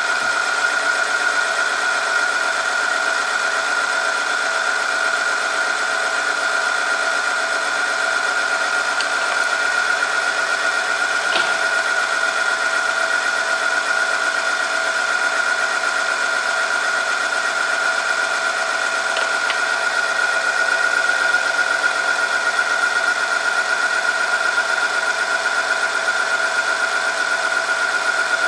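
Oil friction test machine running under load, its spinning shaft rubbing against a steel test sample lubricated with 5W30 engine oil: a steady high whine over a rasping, grinding noise. A single short click about eleven seconds in.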